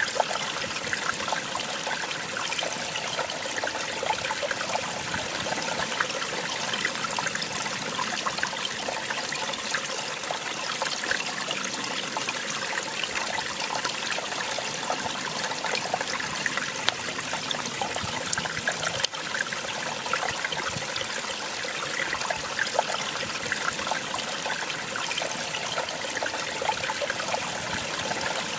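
Small waterfall splashing and trickling steadily, a dense even rush of water with fine splashes. One sharp brief click stands out about two-thirds of the way through.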